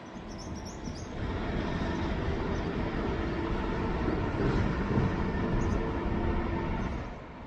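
A heavy vehicle passing, a loud steady rumble with a faint hum of tones in it that builds about a second in and fades away near the end.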